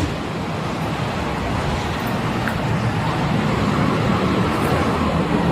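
Steady vehicle and road traffic noise with a low rumble.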